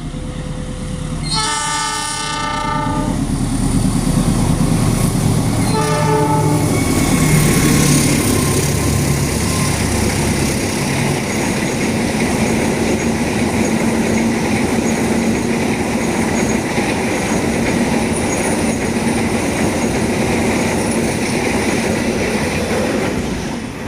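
Train horn sounding a long blast, then a short one a few seconds later, followed by the train passing over the level crossing: a steady loud rumble with wheels clattering on the rail joints.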